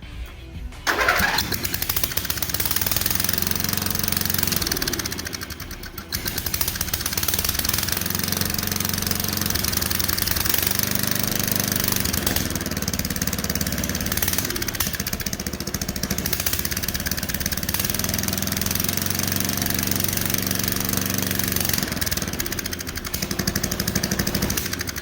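A riding mower's 12.5 hp single-cylinder Briggs and Stratton engine, running with its muffler removed. The engine comes in suddenly about a second in and runs on steadily, its speed dipping and rising a few times.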